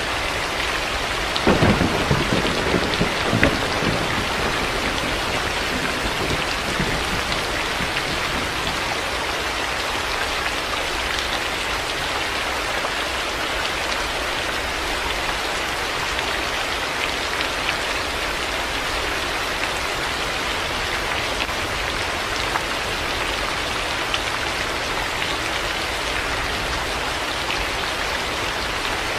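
Heavy rain falling steadily as an even hiss, with a clap of thunder about a second and a half in that rumbles for a couple of seconds and dies away into the rain.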